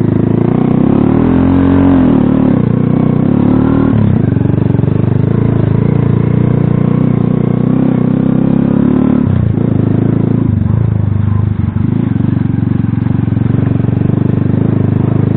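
Small Alpha moped-style motorcycle engine running loud under throttle as it is ridden, its pitch rising and falling as the revs change.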